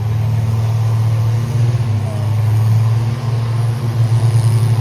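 Diesel pickup truck engine held at high revs under load in fifth gear: a loud, steady drone that flutters slightly near the end.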